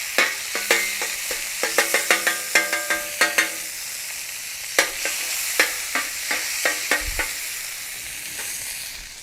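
Oil and butter sizzling on a hot griddle pan, with a quick run of ringing metal clinks from a spatula striking and scraping the pan, which thin out and stop about seven seconds in, leaving the steady sizzle.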